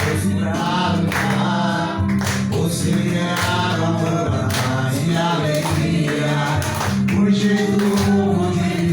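Music: a group singing a devotional hymn over instrumental accompaniment with a steady bass line.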